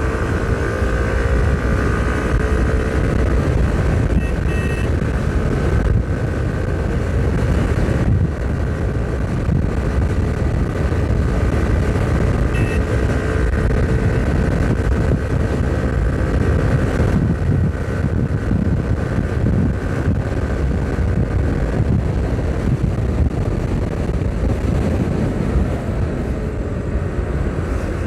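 Hero XPulse 200 4V's single-cylinder engine running steadily at high road speed, about 107 km/h, with wind rumbling over the microphone.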